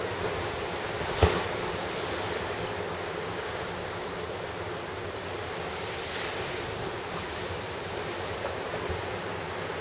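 Ocean surf washing and breaking on the shore, with wind buffeting the microphone. A short, sharp thump about a second in stands out above the surf.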